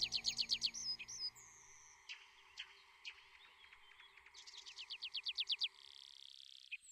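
A songbird singing quick runs of short, falling, high notes, one run at the start and another about four and a half seconds in. Soft background music fades out in the first two seconds.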